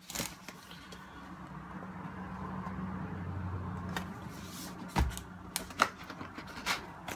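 Handling noise from unpacking and picking up the radio: faint rustling over a low steady hum, with a few sharp clicks and knocks from about five seconds in.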